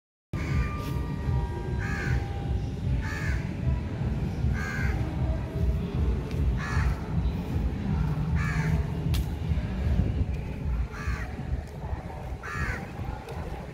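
A bird calling again and again in short calls, about seven in all, every one and a half to two seconds, over a steady low rumble.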